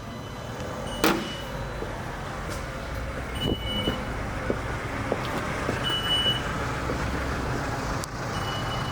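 Land Rover Freelander running with a steady low rumble. There is a sharp click about a second in, several short high beeps and a few light knocks.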